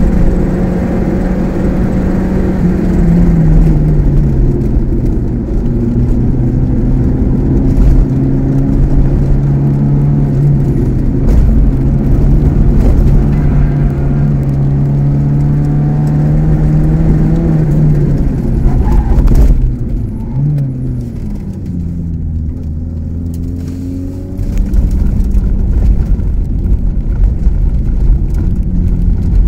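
Onboard sound from inside the cabin of a 1984 Opel Ascona C, its 2.0-litre eight-valve C20NE four-cylinder engine running hard at track speed with tyre and road noise. The engine note steps down a few seconds in and holds steady as the car slows. About twenty seconds in it falls to a lower, quieter note for a few seconds before getting louder again.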